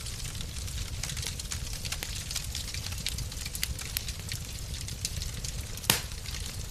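Wood fire crackling in a fireplace: scattered small crackles, one louder pop about six seconds in, over a steady low rumble.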